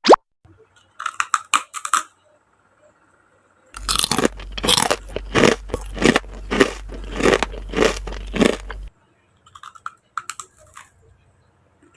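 Close-miked crunching and chewing of crisp food, a run of sharp crunches from about four to nine seconds in, with a few softer clicks before and after. A short cartoon-style sliding sound effect ends right at the start.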